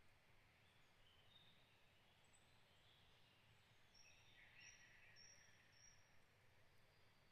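Faint, distant songbirds calling in forest ambience: scattered high chirps, then a series of four short, high notes about two-thirds of the way in, over a low steady background rumble.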